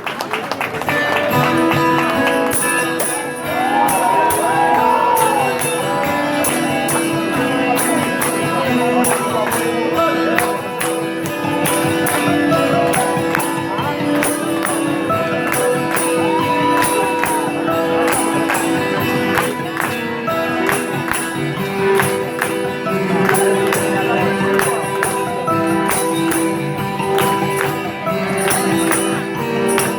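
Live rock band playing, with a tambourine shaken in a steady quick beat over sustained guitar and keyboard tones.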